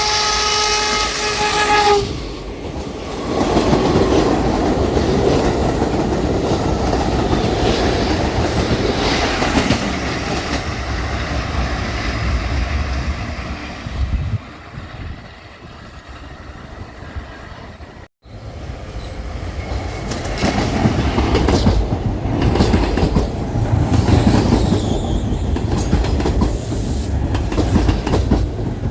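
New York City subway train sounding its horn, a steady pitched blast of about two seconds, then running through the station with wheels rumbling and clattering over the rail joints. After a sudden break about two-thirds of the way in, another train rumbles and clatters past.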